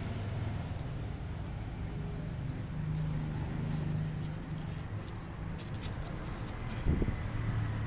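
A kitten playing with a thin palm-leaf stick: light scratchy clicks and rustles of claws and stick, thickest past the middle, and a soft thump near the end, over a low steady hum.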